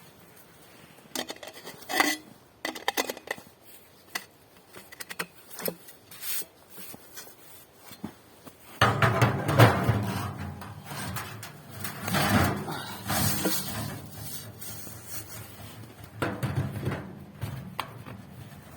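Sheet-metal parts of a tent stove being handled: scattered light clinks and knocks, then a louder stretch of scraping and rattling about nine seconds in, and a few more knocks near the end.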